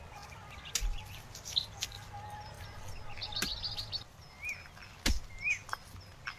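Small birds chirping: a quick high trill, then a few short rising-and-falling chirps. Scattered sharp clicks and snaps, the loudest about five seconds in, over a low steady background rumble.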